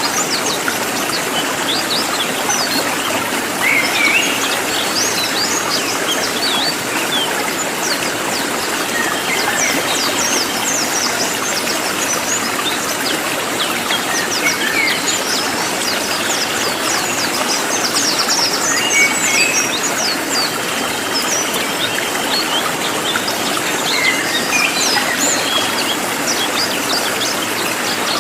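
Cililin songbird calling in rapid, sharp, high-pitched chirps and short trills in quick succession, over a steady rushing background noise.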